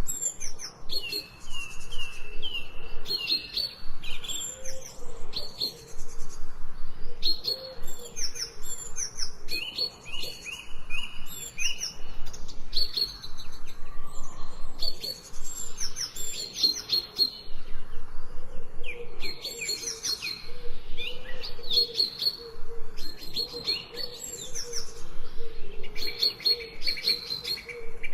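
Songbirds chirping and singing in quick repeated phrases, several overlapping, with short pauses between bursts.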